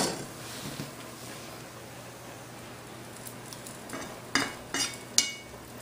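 Cheese quesadilla frying in a non-stick pan, giving a faint steady sizzle. There is a sharp knock at the very start and a few light clicks of kitchen utensils about four to five seconds in.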